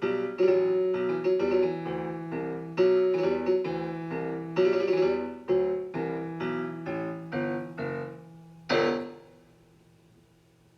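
Solo piano playing the closing postlude of an art song: a string of struck chords that grows quieter, then one louder final chord about nine seconds in that rings and dies away.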